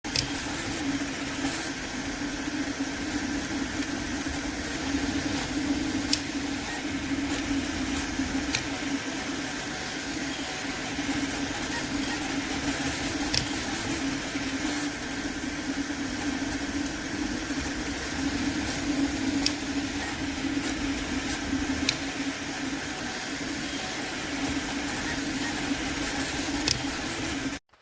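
Steady mechanical hum with a low drone and occasional faint ticks.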